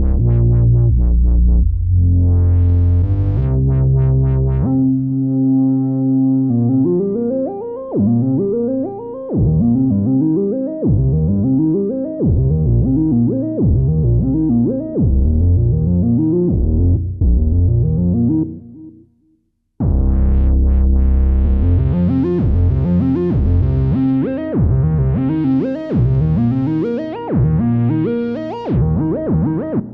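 Electronic music played on a Native Instruments Maschine Plus groovebox: synth chords and heavy bass, then a run of short plucked synth notes that each drop in pitch. The sound fades out and stops briefly just before the midpoint, then a fuller section with bass and synth comes back in.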